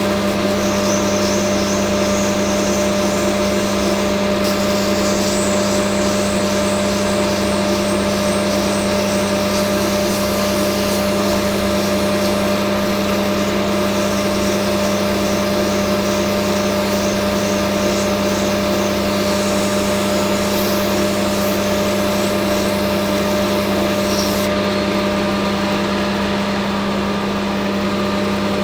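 Hafco AL960B metal lathe running steadily with a constant motor and gearbox hum, a higher hiss of work on the spinning part over it that stops near the end.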